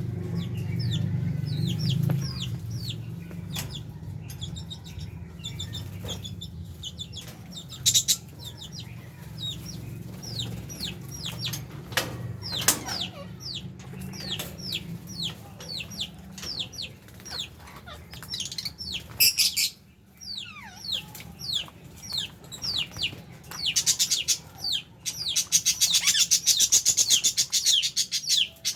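A flock of lovebirds and budgies in an aviary chirping without a break: short, shrill, downward-sliding chirps, several a second, building to a dense burst of chatter about 24 seconds in. A low steady hum runs underneath through the first half.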